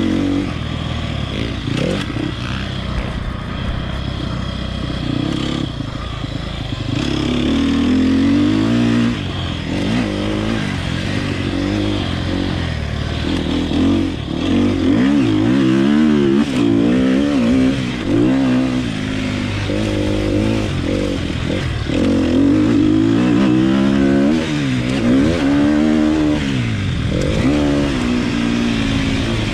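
Sherco dirt bike engine running hard under throttle, its pitch rising and falling over and over as the revs climb and drop.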